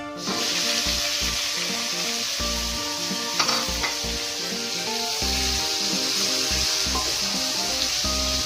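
Diced cucumber going into hot oil and fried garlic in a wok, sizzling steadily as it is stirred with a wooden spatula. One sharp knock about three and a half seconds in.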